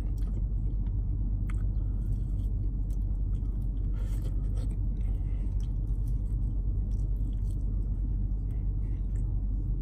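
A person chewing a mouthful of smoked pork rib meat, with faint scattered mouth clicks, over a steady low rumble inside a vehicle cab.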